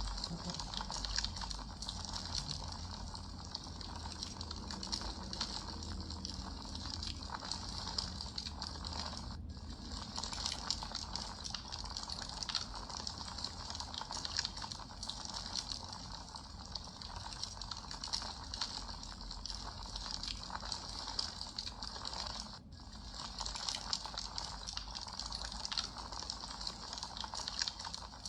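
Wood fire crackling and hissing steadily, with many small pops and snaps.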